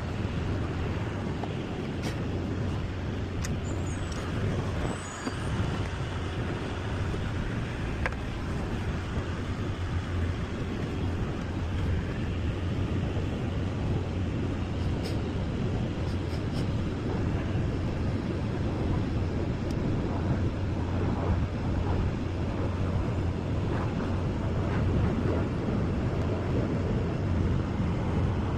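An engine running steadily, a constant low hum under a rushing noise, with a few faint clicks.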